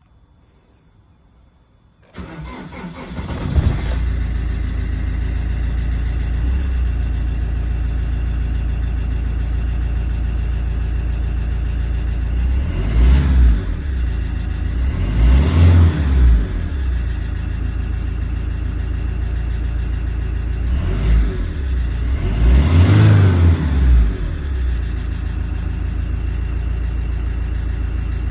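Iveco 2.3-litre four-cylinder diesel engine cranking and starting about two seconds in, then idling steadily. It is revved up and let fall back four times, in two pairs, the last of each pair the stronger.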